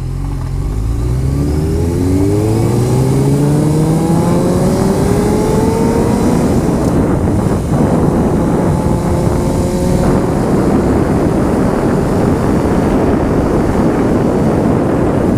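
Honda CBR motorcycle engine pulling hard, its pitch climbing steadily for about six seconds, then a break about halfway through and steadier running at speed. Heavy wind noise on the microphone runs under it.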